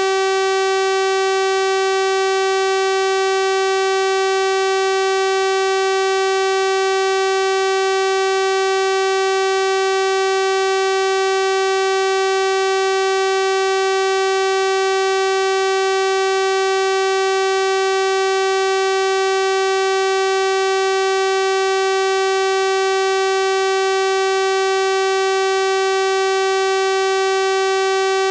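Synthesized 384 Hz sawtooth-wave test tone held at one unchanging pitch, a bright buzzy tone with a full series of harmonics.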